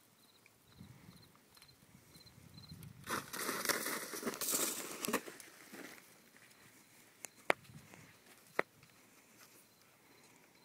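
Crinkling, rustling noise for about three seconds, as of a horse pushing through a plastic obstacle, followed by two sharp clicks about a second apart.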